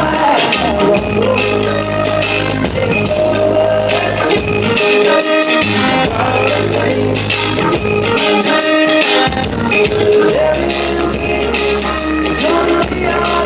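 Live band playing an instrumental stretch of a reggae song, with a steady bass line, keyboard chords and drums.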